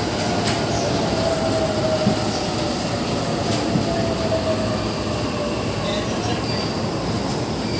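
E233 series electric commuter train slowing as it pulls into the platform: a steady rumble of wheels on the rails, with a thin whine that slides slowly down in pitch over the first few seconds.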